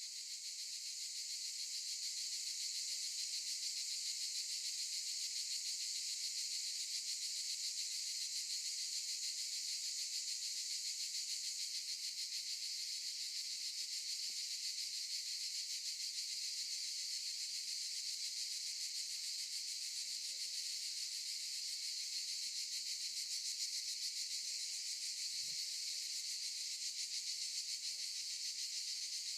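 Cicadas chorusing: a steady, dense high-pitched buzz with a fine rapid pulse, swelling slightly over the first couple of seconds and then holding even.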